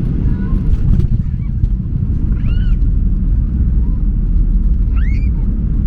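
Boeing 737-800 cabin noise during landing: a steady low rumble, with two brief rising-and-falling higher tones about two and a half and five seconds in.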